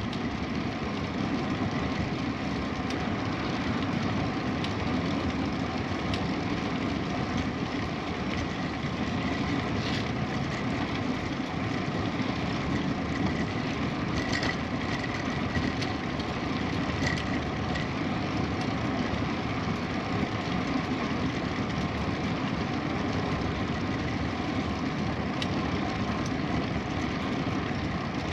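Steady rumble of wind and rolling noise from a moving bicycle, with a few faint ticks.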